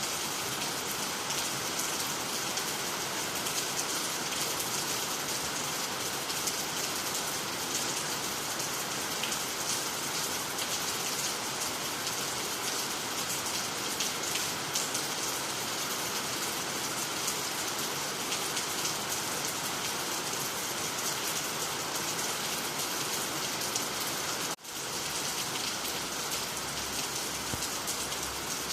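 Steady rain falling on water, nearby trees and the ground, an even hiss of drops with no thunder. The sound drops out for a split second about three-quarters of the way through, then carries on with a faint low hum beneath it.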